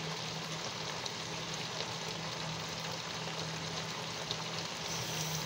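Chicken pieces and potato cubes frying in a pot, a steady soft sizzle, with a low steady hum underneath.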